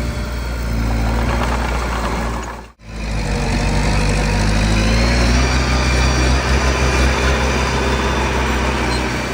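Mini bulldozer's diesel engine running steadily under work; the sound cuts out briefly about three seconds in, then resumes with the engine pitch rising a little.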